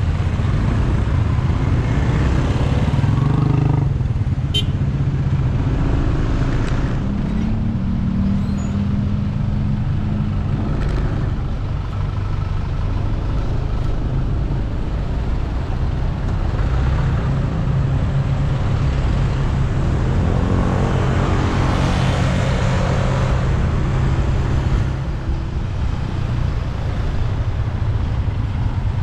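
Road traffic of motorcycles and cars, engines running steadily as vehicles pass, swelling twice as vehicles go by close. There is a brief high squeal about four and a half seconds in.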